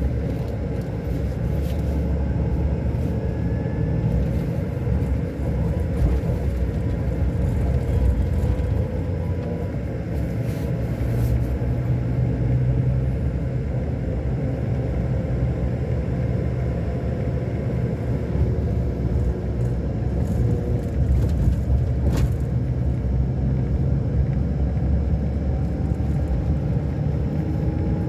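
Scania K-400 Euro 5 coach engine running under way, a steady low rumble with slowly shifting engine tones. One sharp click comes about 22 seconds in.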